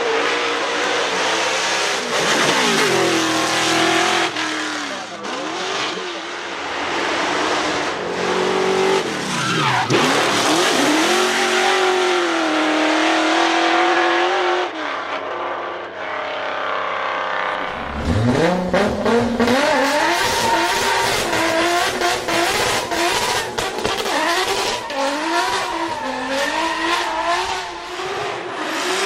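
Drift car engine revving hard, its pitch swinging up and down, with tyres squealing. Just past the middle the sound dips briefly, then the engine pitch climbs steeply and holds at high revs, wavering.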